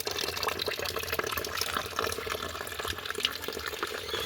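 Water running and splashing, with many small drips and spatters.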